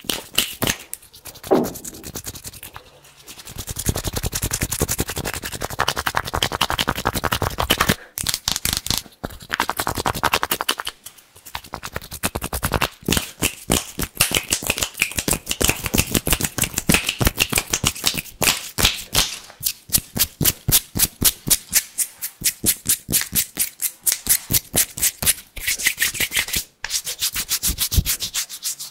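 Bare hands rubbed and swished together fast and hard, a crisp dry rubbing. In the second half it turns into rapid, even strokes, about five a second.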